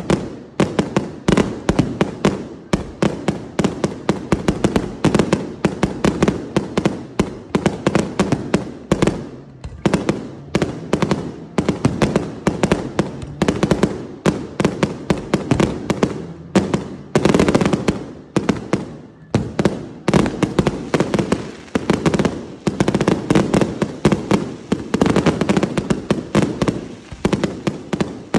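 Fireworks display: a dense, continuous barrage of bangs and crackles from aerial bursts, many a second, with only brief lulls.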